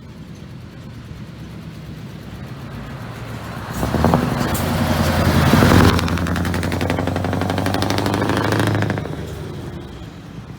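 Scania V8 truck engine with open exhaust pipes, growing louder as it comes closer, loudest about four to six seconds in, then a steady engine note that falls away about nine seconds in.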